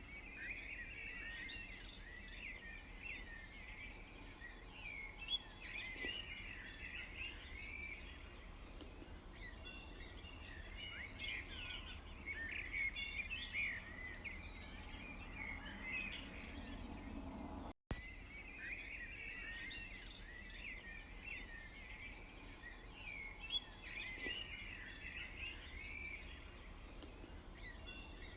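Many small birds chirping and twittering continuously in quick overlapping calls, over a steady low background rumble. The sound cuts out for an instant about two-thirds of the way through.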